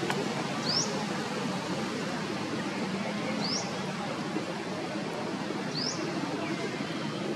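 Steady outdoor background hiss, with a bird's short, high rising chirp repeated three times, about every two and a half seconds.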